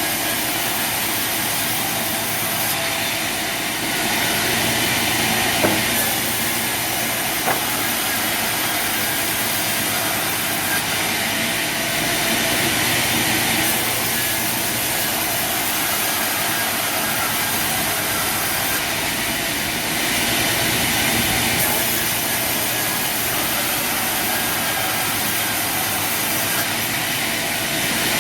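Sawmill machinery running with a steady, hissing noise, with two short sharp knocks a few seconds in.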